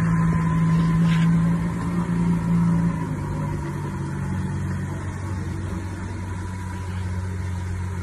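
Lamborghini V12 supercar engine running steadily at low revs as the car creeps along; about three seconds in the engine note drops and gets quieter, then holds a steady, lower hum.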